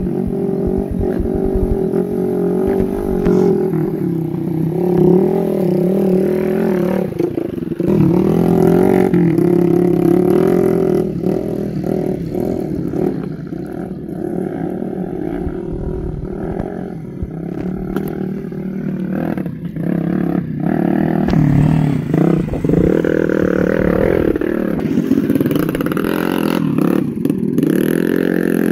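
Motorcycle engine of a harvest-carrying motorbike running under way, its pitch rising and falling as the throttle changes.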